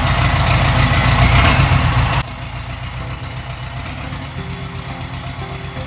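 Cummins 4BT four-cylinder diesel running just after start-up with a loud, fast diesel clatter, then dropping suddenly about two seconds in to a quieter, steady idle.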